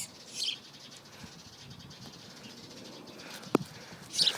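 A small bird held in the hand gives short, high-pitched squawks, once near the start and again near the end. A sharp click falls a little past halfway.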